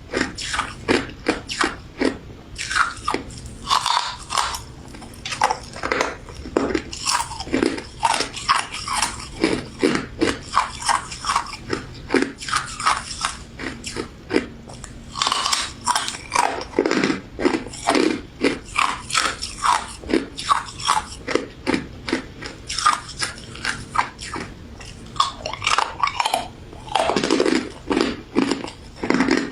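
Close-miked biting and chewing of a frozen crystal snow ice dessert: a dense run of sharp, crisp crunches, several a second, with mouth sounds between them.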